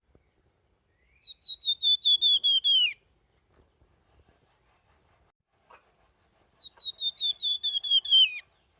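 A flamboyan songbird singing its flute-like whistled song: two phrases, each a quick run of about ten clear notes that slide downward, ending in a lower falling slur, a few seconds apart.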